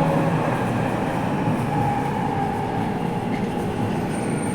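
Steady rumble of a Toei Mita Line subway train running, heard from inside the car.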